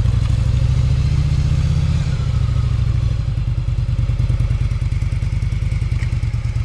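Yamaha Virago 1100's V-twin engine running as the motorcycle is ridden, with a low, pulsing exhaust note. About two to three seconds in, the note changes and drops a little in loudness, then carries on with an even, rapid beat.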